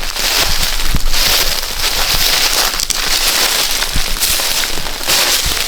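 Footsteps crunching and crackling through dry leaves and brush, a dense run of small crackles with a few heavier thumps.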